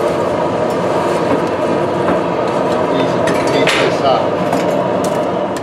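Gas heating torch burning with a steady rushing noise as it heats the stainless steel figure for bending, with a few faint metallic clinks.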